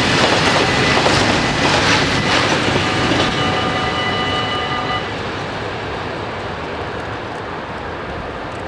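Freight train of tank wagons rolling past over the crossing, wheels clattering, with thin steady high-pitched squealing tones over it; the noise drops away about five seconds in as the last wagon clears, leaving a quieter hush.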